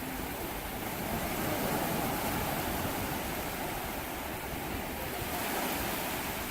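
Sea waves washing ashore in a steady rush of surf, swelling a little twice, with some low wind rumble on the microphone.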